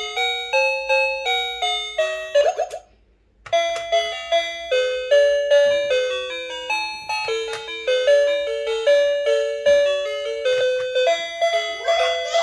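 Electronic toy piano playing a bright, chime-like tune note by note, with a short break about three seconds in before the melody carries on.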